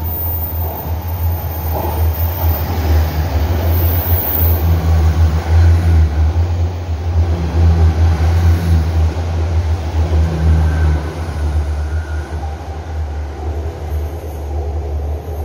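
Passenger train passing through the station at speed, a steady low rumble of wheels on rail that builds to its loudest in the middle as the cars go by, then eases off.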